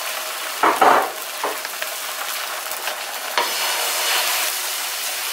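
Egg-and-chicken batter frying in butter on a hot flat tawa, a steady sizzle. A second portion is poured from a bowl and pushed out with a fork, adding a few brief louder sounds.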